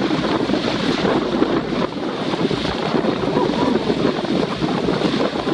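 Strong wind buffeting the microphone, with water rushing and splashing along the hull of a Hobie Adventure Island sailing kayak under way.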